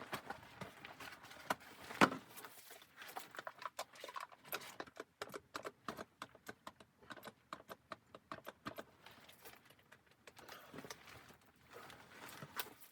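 Irregular run of small clicks and knocks, with one sharp, louder knock about two seconds in.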